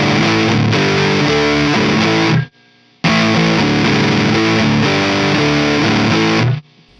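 Distorted electric guitar played through a Mesa Boogie Mark IIC+ amp model, a riff that stops dead about two and a half seconds in, starts again half a second later and cuts off again near the end.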